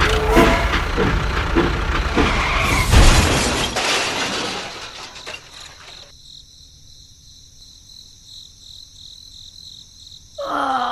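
A loud clattering crash of many quick impacts that dies away over the first four or five seconds.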